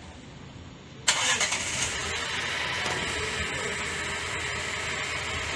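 Mercedes-Benz GLA 200's 1.3-litre turbocharged four-cylinder engine starting about a second in, then running at a steady idle.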